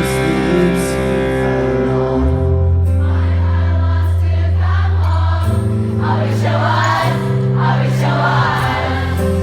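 Live band playing a slow rock ballad: long held chords that change every couple of seconds, with voices singing over them about midway through.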